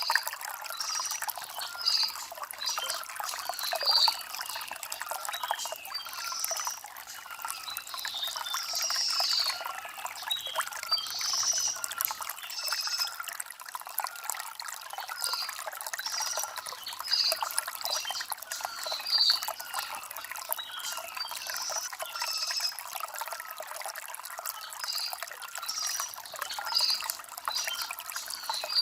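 Shallow stream water trickling steadily over stones, with small birds chirping in short notes every second or two throughout.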